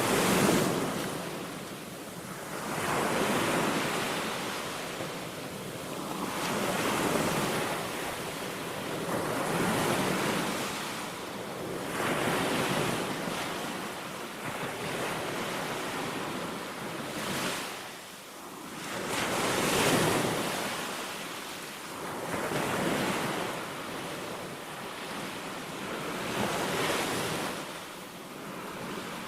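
Small sea waves breaking and washing up a sandy beach, one surge every two to three seconds, with wind on the microphone.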